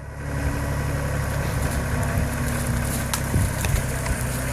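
Tractor engine running steadily. It dips briefly at the very start and comes straight back up, and a few sharp knocks sound a little after three seconds in.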